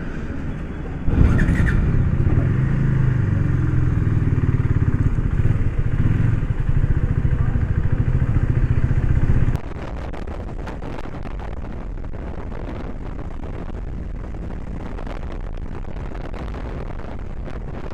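KTM Duke 390's single-cylinder engine comes in suddenly about a second in and runs loud at low revs as the bike pulls away. About halfway through it drops abruptly to a steadier, quieter engine and road sound as the bike cruises along the road.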